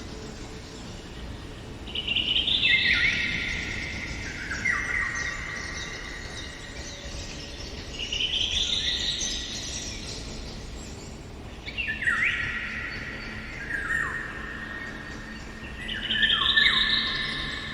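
A songbird singing four loud phrases, each a run of notes stepping down in pitch over about two seconds, repeated every four to six seconds.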